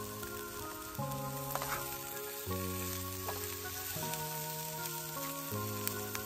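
Chopped Spam, onion and peppers sizzling as they fry in a pan, stirred with a spatula. Background music of sustained chords, changing about every second and a half, plays over it.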